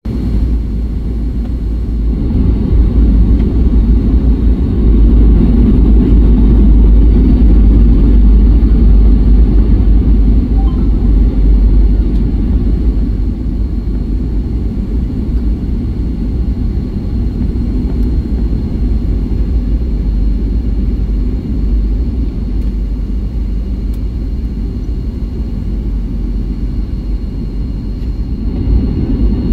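Steady low rumble of an airliner cabin in flight, the drone of the engines and the air rushing past the fuselage. It swells a few seconds in, then eases slightly.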